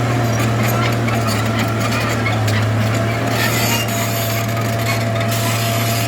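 Heavy earthmoving machine's diesel engine running steadily under a low drone, with a constant clatter of small clicks and scraping over it.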